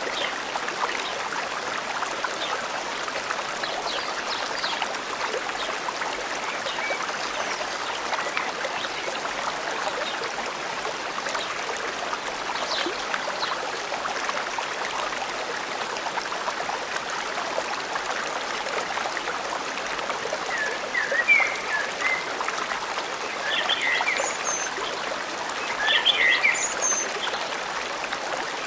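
Forest stream flowing steadily. Short chirping calls come in clusters about two-thirds of the way through and again near the end.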